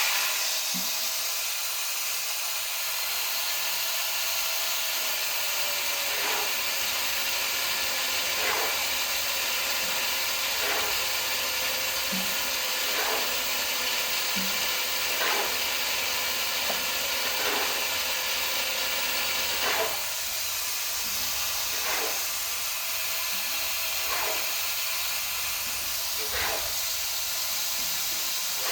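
Electric arc welding on a steel I-beam: a steady hiss that strikes up suddenly at the start and runs on without a break.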